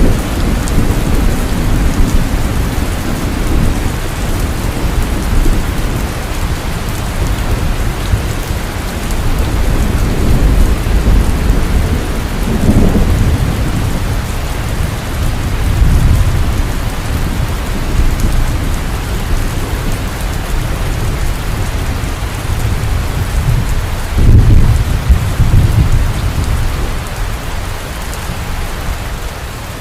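Heavy rain pouring steadily, with thunder rumbling low underneath and swelling several times, loudest about 16 seconds in and again around 24 to 26 seconds.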